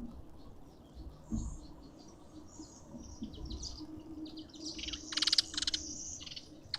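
Garden birds chirping in short high notes, with a cluster of louder, harsher calls about five seconds in.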